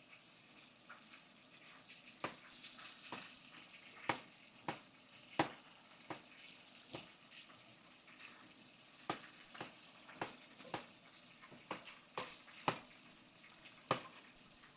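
Fish pan-frying in hot oil: a faint steady sizzle broken by irregular sharp pops, the loudest about four and five and a half seconds in.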